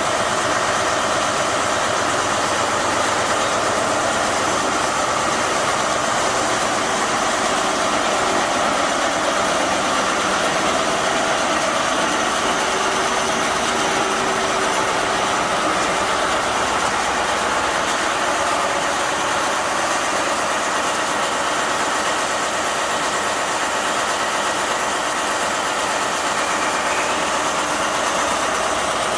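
British Rail Class 43 HST power car's diesel engine idling steadily, an even, unchanging drone.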